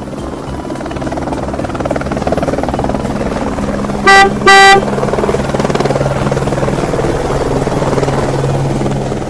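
Helicopter rotor sound effect chopping steadily, with a car horn honking twice in two short toots about four seconds in.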